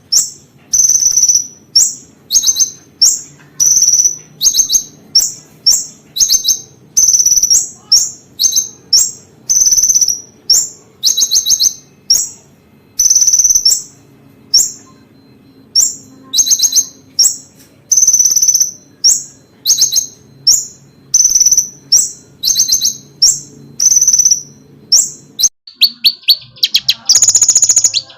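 Konin bird singing: repeated short, high chirping calls, one or two a second, some of them quick trills. Near the end it breaks into a faster, continuous trill. A faint low hum runs underneath.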